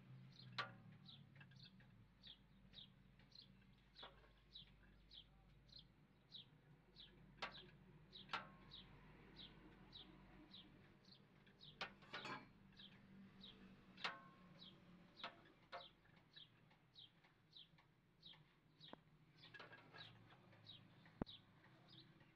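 A bird chirping over and over, about two short falling chirps a second, faint and steady. A few sharp clicks and taps of tools on metal come in between.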